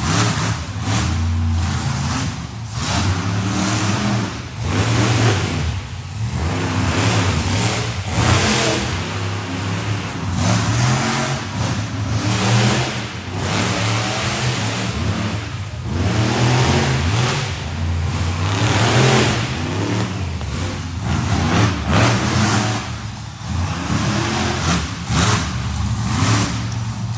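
Monster truck engine revving hard over and over, the pitch climbing and dropping with each burst of throttle.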